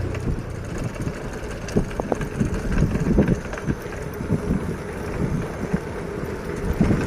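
Wind buffeting the microphone during a bike ride: a low rumble broken by irregular knocks and thumps.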